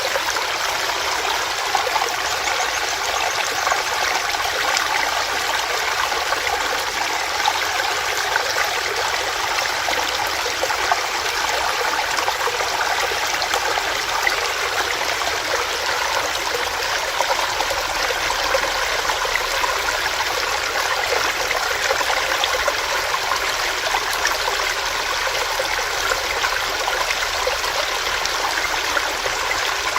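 Small stream running over rocks, a steady splashing and gurgling rush of water.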